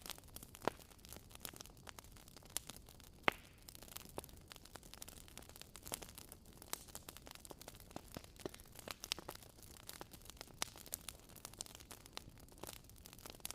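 Wood fire crackling in a fireplace: irregular sharp pops and snaps over a soft hiss, with two louder pops in the first few seconds.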